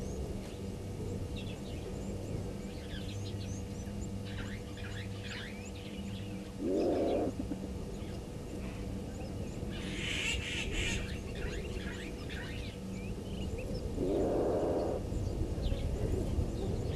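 An unidentified low animal call, about a second long, heard twice, about 7 s and 14 s in, amid many small bird chirps. A brief hissy rush comes about 10 seconds in.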